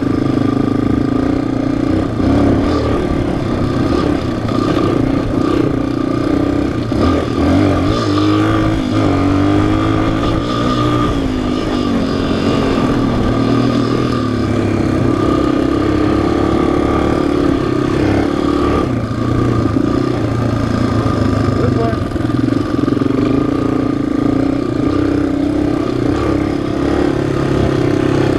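Single-cylinder four-stroke engine of an ATV or dirt bike running steadily under way. Its pitch rises and falls for a few seconds in the middle as the throttle is worked.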